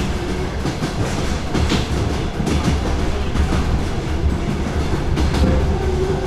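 DR1A diesel multiple unit train running: a steady low rumble with the wheels clacking over the rail joints, heard from aboard the train.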